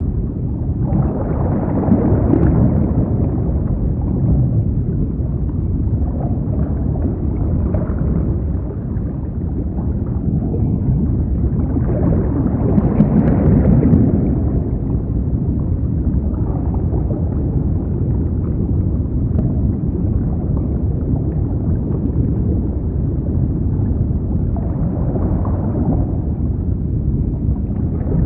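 Saltwater aquarium water circulating: a steady low gurgling rumble that swells and eases every few seconds.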